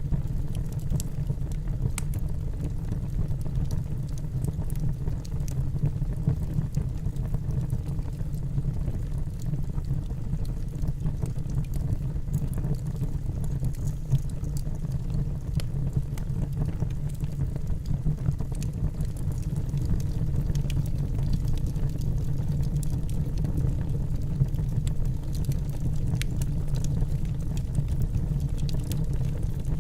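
Wood fire burning in a fireplace: a steady low rumble of flames with small, scattered crackles and pops from the burning logs.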